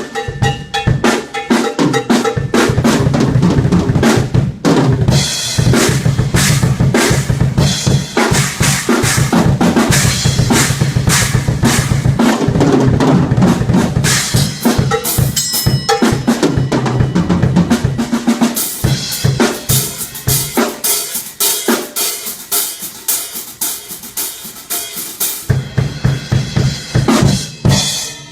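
Live band playing at a sound check, the drum kit loudest with bass drum and snare hits throughout. The low end drops away for several seconds past the middle and comes back near the end.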